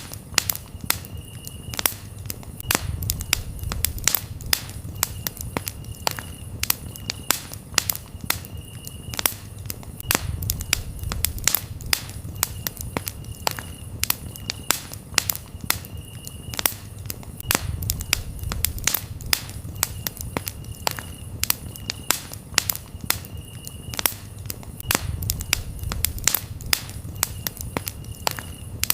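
Campfire crackling, with many sharp pops over a low rumble of burning wood. A cricket chirps in short, repeated trills behind it.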